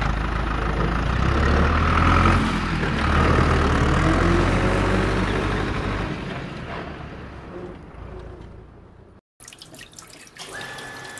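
Water running and splashing from a small homemade electric water pump, with a low steady hum under it. It fades away over the second half and cuts off about nine seconds in. A thin steady whine starts about a second later.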